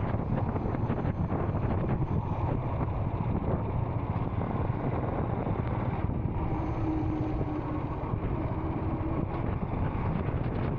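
Royal Enfield Scram 440 single-cylinder engine running steadily while riding, mixed with wind noise on the microphone. A faint steady tone comes in for a few seconds past the middle.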